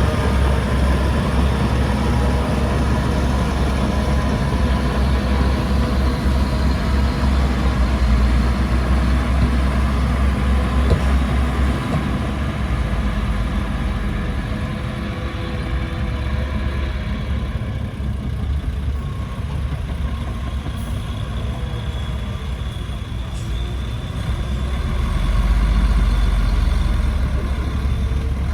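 Heavy diesel construction machinery running: a loud, steady low engine rumble that eases off partway through and builds again near the end.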